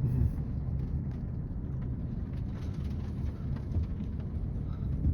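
Car driving, heard from inside the cabin: a steady low rumble of engine and tyres with a faint haze of road noise above it.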